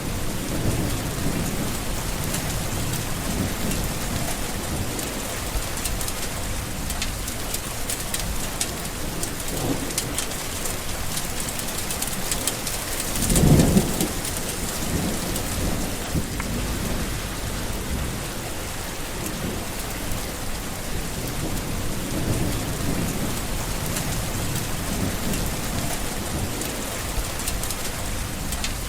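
Steady heavy rain with low rolling thunder, and one louder, sharper thunderclap about halfway through.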